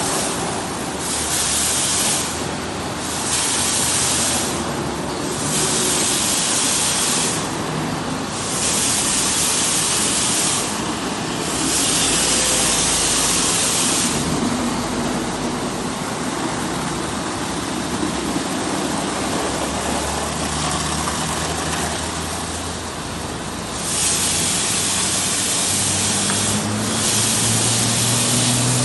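Car wash water spray hissing against a car, in sweeps that swell and fall away every few seconds, over a steady low machine hum.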